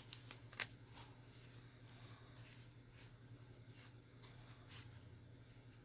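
Faint rustling and light ticks of paper journal pages being handled, with one sharper click about half a second in, over a low steady hum.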